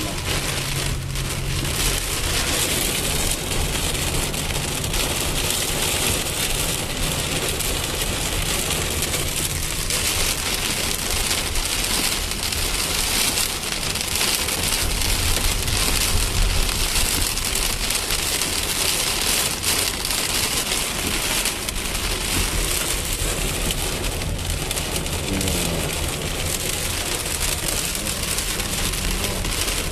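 Rain pouring down steadily: a dense, even hiss of drops on hard surfaces, with a low rumble underneath.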